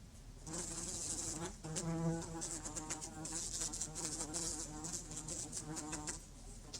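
Insect buzzing, wavering in pitch, starting about half a second in and stopping near the end.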